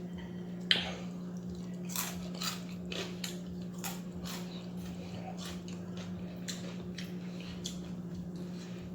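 Close-up biting and chewing of crunchy fried food, with irregular sharp crunches, the loudest about a second in. A steady low hum runs underneath.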